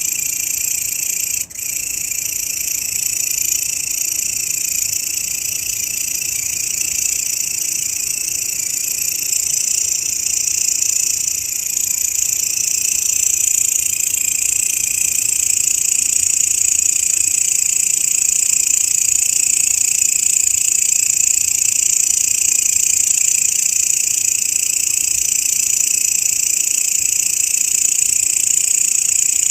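Grasshoppers stridulating: a steady, continuous high-pitched buzzing, with a brief break about a second and a half in.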